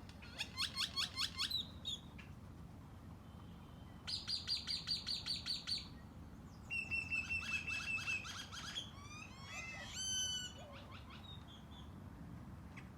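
Songbirds singing: three trills of rapidly repeated chirping notes, followed by a jumble of sliding whistled notes.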